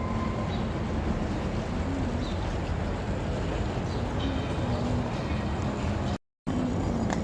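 Steady rumble and hiss of a moving high-speed train heard from inside the carriage, with a faint wavering hum.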